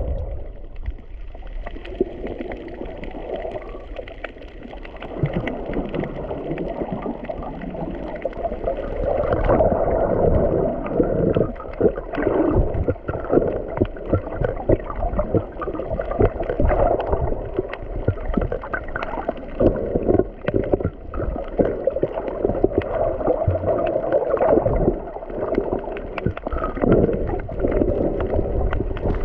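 Muffled water sloshing and gurgling heard through a camera in the sea while snorkeling, with many irregular splashes that become denser after about ten seconds.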